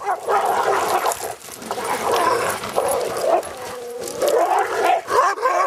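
A team of sled dogs barking and yelping, many voices overlapping at once.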